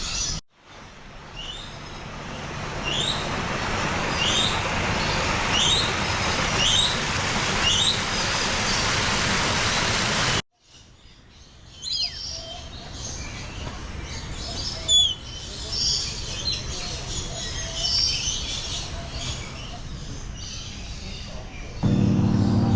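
Birds calling: a short rising chirp repeated about once a second over a steady rushing noise, then, after a sudden cut, a mix of varied chirps and whistles from several birds.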